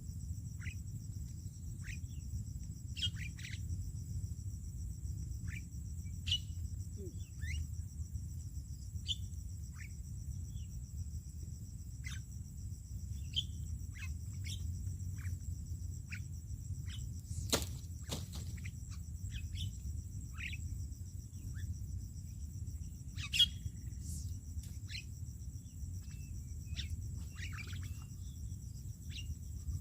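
Birds giving short, scattered chirps over a steady, high insect buzz of crickets or cicadas. A low rumble runs underneath, and a single sharp click comes about halfway through.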